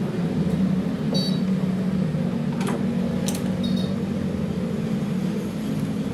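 A machine running with a steady low hum, with a few faint clicks and short high squeaks on top.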